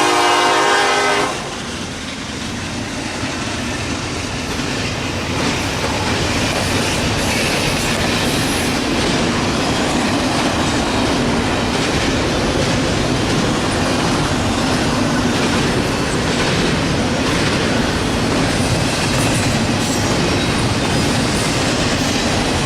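Nathan K5LLA air horn on a Norfolk Southern SD70ACe locomotive, cutting off about a second in. Then the steady clatter of an intermodal train's cars rolling past on the rails, with regular wheel clicks over rail joints.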